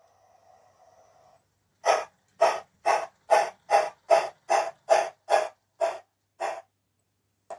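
Synthetic steam-locomotive exhaust chuffs from a MyLocoSound sound card, played through the small speaker under a 16mm-scale Wisbech tram locomotive: about a dozen evenly spaced chuffs, a little over two a second, slowing slightly near the end.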